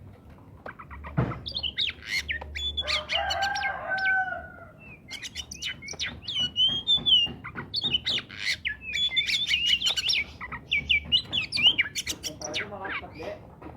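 Oriental magpie-robin singing a rapid run of loud whistled notes and slurs, with short breaks. A chicken calls in the background about three seconds in.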